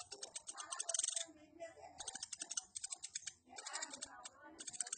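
Woodpecker giving bursts of rapid, chattering high-pitched ticks, several bursts in a row, with softer lower sounds in between.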